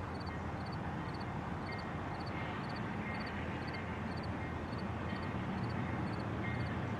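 Steady low rumble of a running engine, with a faint high chirp repeating about twice a second.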